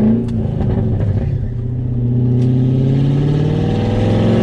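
BMW E34 540i V8 with the muffler and resonator removed, straight-piped after the high-flow cats, under way and really loud. The revs drop briefly with a few clicks about half a second in, then climb steadily as it accelerates.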